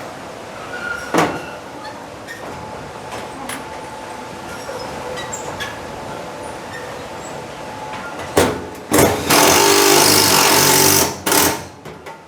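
Power drill driving a screw to fasten down a truck-bed toolbox: a few sharp knocks, then the drill runs hard for about two seconds near the end.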